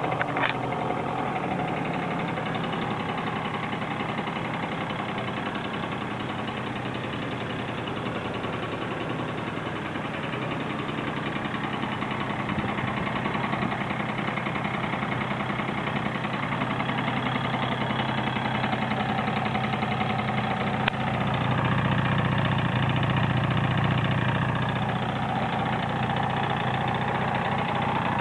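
Honda Zook's 50cc two-stroke single-cylinder engine idling steadily, getting a little louder for a few seconds about three-quarters of the way through, with one brief click just before.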